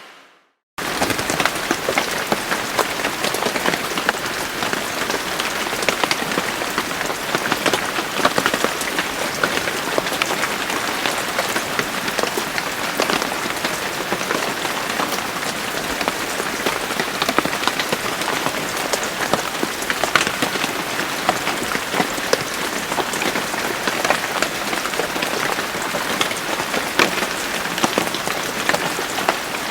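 Steady rain falling on a surface: a dense, even patter with many sharp individual drop hits. In the first second it breaks off into silence for a moment, then cuts straight back in.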